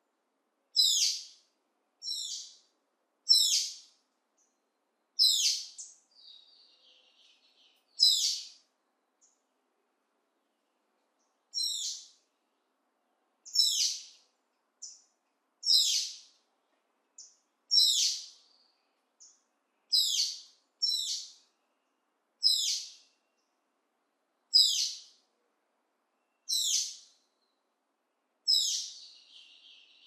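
A bird repeats a short, high-pitched call about every two seconds, with silence between calls. A fainter, lower chattering call comes in briefly after about six seconds and again near the end.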